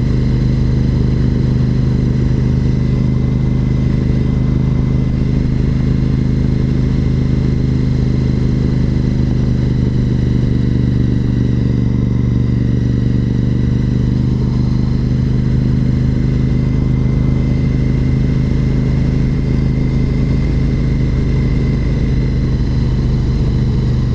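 2004 Honda RC51 SP2's 1000cc V-twin engine running at steady revs while the motorcycle cruises, with an even, unchanging engine note.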